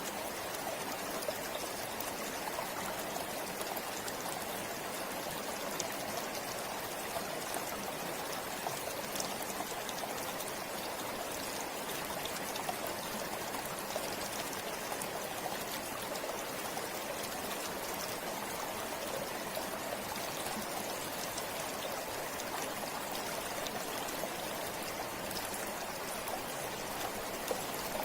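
River or forest stream flowing steadily over rocks: a constant rushing of water with fine splashing and trickling.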